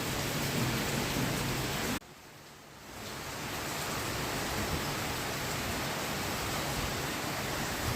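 Steady rushing hiss of heavy cyclone rain. It drops away abruptly for about a second around two seconds in, then builds back up.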